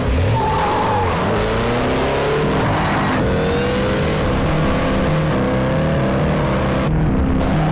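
A Jaguar F-Pace SVR's 5.0-litre supercharged V8 accelerating hard, its revs climbing, dropping at each gear change and climbing again, with a brief tyre squeal under a second in. The engine sound cuts off sharply near the end.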